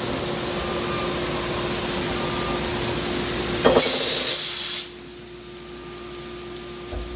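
CNC machine running with a steady hum and a hiss of noise. Just past halfway comes a loud, high hiss for about a second, like a blast of air or spray, and then the running noise drops to a quieter level.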